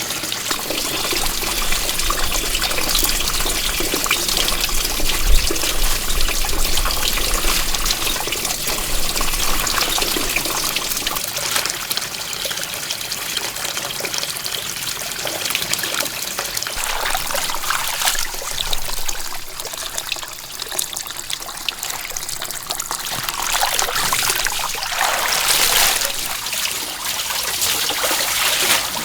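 Steady splashing and trickling water, dense with small crackles, swelling briefly near the end.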